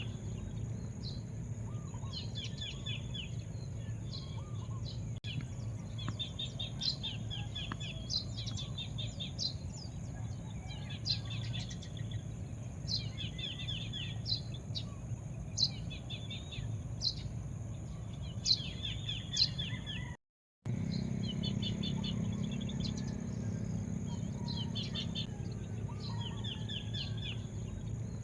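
Small birds chirping, with short trills repeated every second or two and sharp single chirps in between, over a steady low background rumble. The sound cuts out for a split second about two-thirds of the way through.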